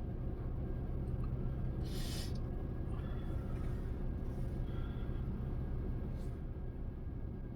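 Steady low rumble of a vehicle heard from inside, with a brief hiss about two seconds in.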